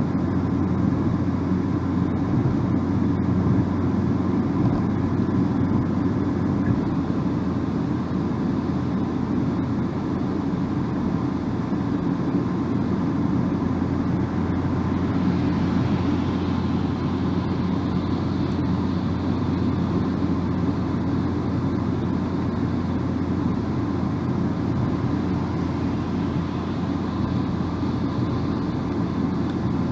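Car driving steadily at road speed: a constant low rumble of tyres and engine, with a slight rise in hiss about halfway through.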